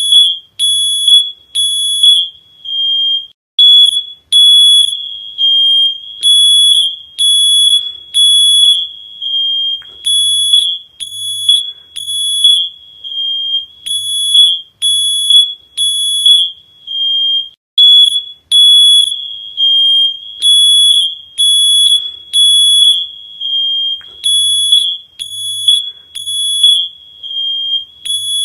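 Smoke alarm beeping over and over: a shrill, high single-pitched beep about once a second with short gaps between.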